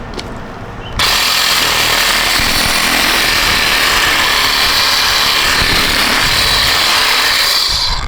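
A power tool cutting through a metal radiator mounting bracket: a loud, steady hiss that starts suddenly about a second in and stops just before the end.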